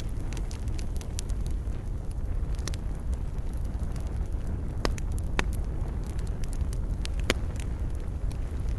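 Wood campfire burning: a steady low rumble under frequent sharp crackles and pops, with a few louder pops in the second half.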